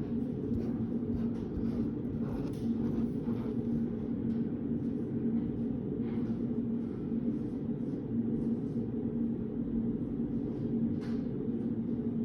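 Steady low hum of a reading room's ambience, with a faint steady tone in it. Faint light ticks and taps are scattered through it.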